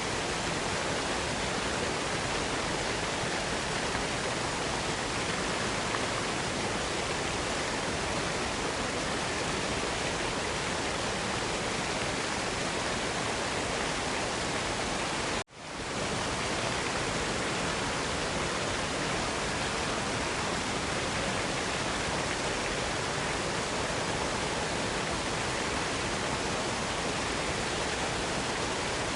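Steady rushing white noise of a waterfall. About halfway through it cuts out for an instant and swells back in.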